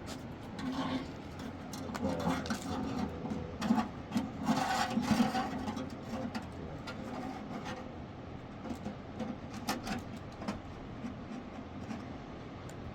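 Irregular scraping and rubbing strokes, loudest in the first half, then a few light knocks and ticks.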